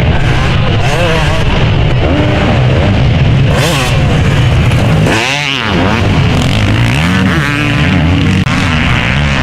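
Motocross motorcycles racing, their engines revving up and down again and again through gear changes and throttle. One engine sweeps up and back down in pitch, loudest about five seconds in.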